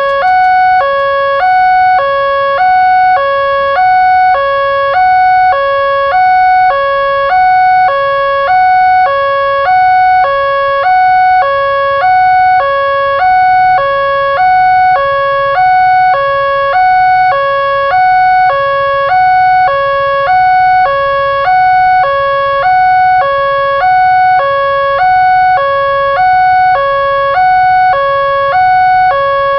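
Railway level-crossing warning alarm, warning of an approaching train: an electronic two-tone signal alternating steadily between a lower and a higher tone, each held about half a second.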